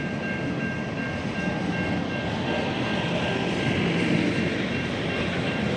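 SCT freight train's wagons, loaded with steel, rolling past close by: a steady noise of wheels on rail, with a faint thin high tone held over it.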